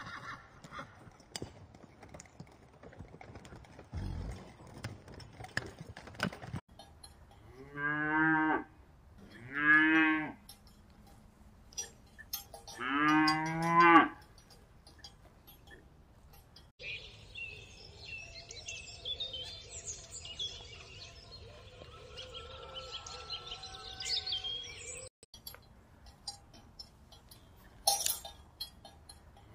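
Cattle mooing: three long, low calls a second or two apart, the last one the longest and loudest.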